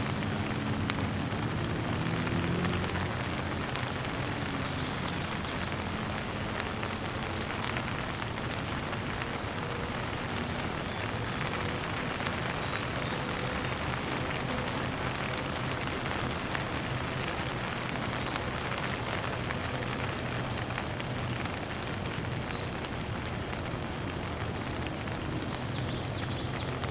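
Steady rain falling, with a continuous hiss and many fine drop impacts pattering on a surface, and a faint low hum underneath.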